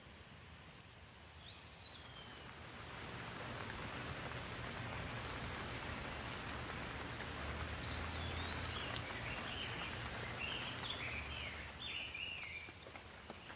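Steady rain falling that swells louder about three seconds in and eases off near the end, with a bird chirping, once early and in a run of short chirps in the second half.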